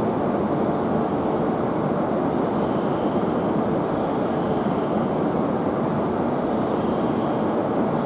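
Tohoku Shinkansen train at the station platform, a steady rushing run noise of wheels and motors with no change in level.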